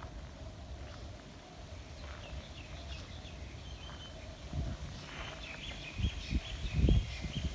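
Small birds chirping in short repeated high notes, faint at first and busier in the second half, over low rumbling bumps that are loudest near the end.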